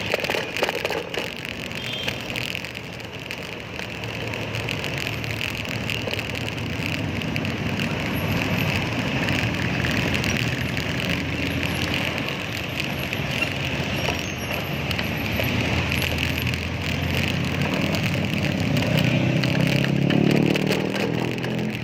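Road traffic: steady engine and tyre noise, with a motor vehicle's engine growing louder near the end.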